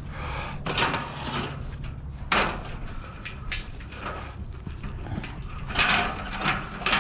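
Junk being handled and moved: a few short rattling clatters of loose objects, the clearest about a second in, about two and a half seconds in and near the end, over a steady low hum.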